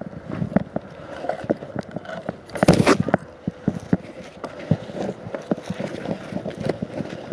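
Irregular knocks, clicks and scrapes, with a short louder rustling burst about two and a half seconds in.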